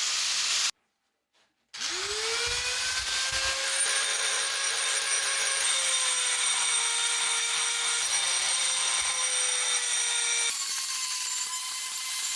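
Electric power tool switched on after a moment of silence: its motor spins up quickly to a steady high-pitched whine, with rasping working noise as it is used, likely on the axe. The sound changes and drops back near the end.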